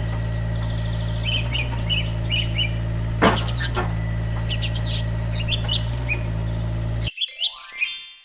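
A small engine running steadily, with birds chirping over it. About seven seconds in, the engine cuts off abruptly and a falling sweep of tones follows.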